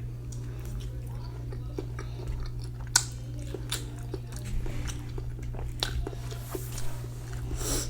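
Close-miked mouth sounds of eating ramen noodles: chewing and biting with irregular wet clicks and smacks, one sharp click about 3 s in. A steady low hum runs underneath.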